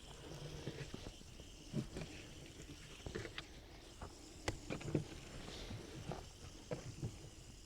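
Knife and hands working a raw slab of pork belly on a cutting board: faint scattered clicks, taps and soft thuds, with a couple of sharper knocks about four and a half and five seconds in.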